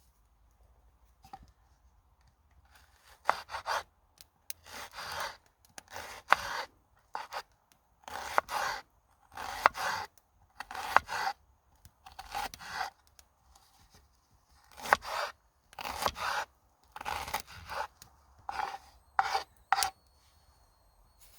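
A long series of short rasping, scraping strokes, often in pairs, beginning about three seconds in.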